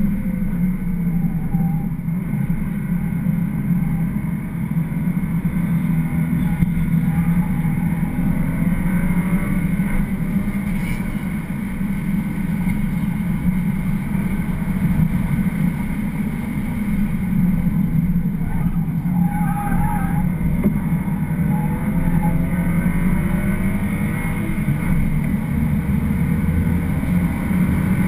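BMW 335xi's turbocharged inline-six driven hard on a racetrack, heard from inside the cabin over steady road and tyre noise, its pitch rising and falling with the throttle and gears.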